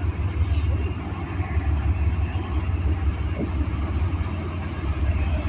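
Diesel locomotives of a Norfolk Southern stack train running with a steady low rumble.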